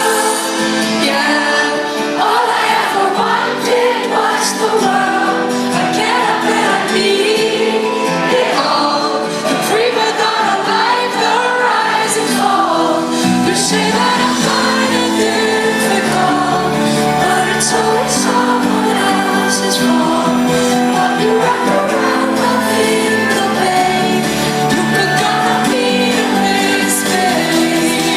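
Live pop music with a woman singing over sustained synth chords; a deep bass line comes in about halfway through.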